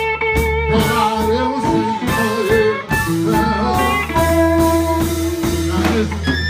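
Live blues band playing, with guitar over bass and drums.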